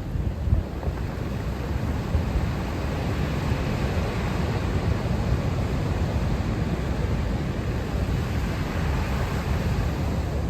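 Steady rushing of wind buffeting the microphone over ocean surf.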